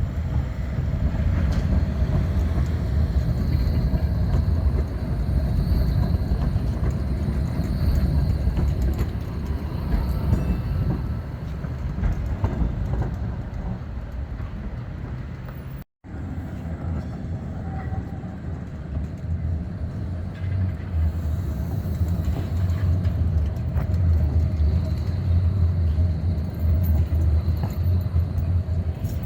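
Škoda 52T ForCity Alpha tram running on street track: a steady low rumble. The sound breaks off for an instant about halfway through and a similar rumble picks up again.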